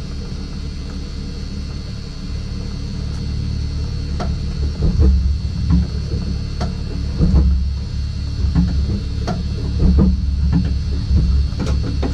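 BMW E46 Compact rally car's engine running at a standstill, heard from inside the stripped cabin. From about four seconds in, the low engine rumble grows louder and uneven, with a string of irregular sharp clicks and knocks.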